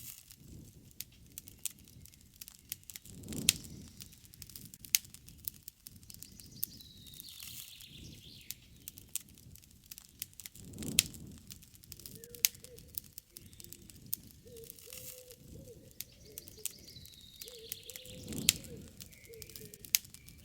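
Wood campfire crackling with a steady stream of small pops and a few louder snaps of burning wood. Birds call in the background: a high chirping call twice, and a low wavering call held through the second half.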